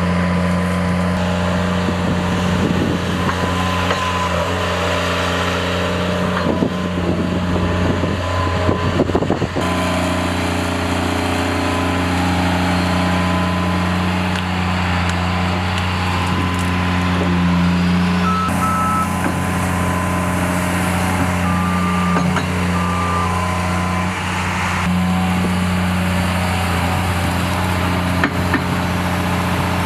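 A heavy machine's engine running steadily, with some irregular clatter in the first third and a few short, high electronic beeps about two-thirds of the way through, like a reversing alarm.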